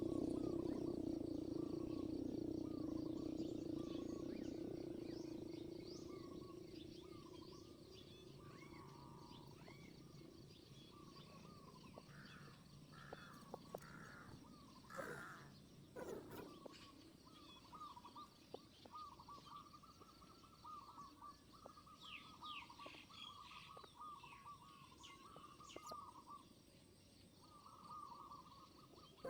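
Small birds chirping outdoors: a long run of short, repeated calls with some higher chirps among them and a louder burst of calls about halfway through. A low steady drone fades out over the first several seconds.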